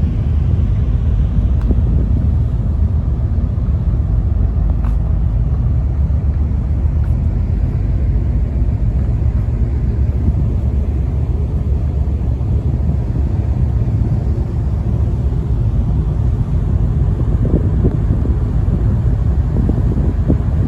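Steady low rumble of a car ferry under way.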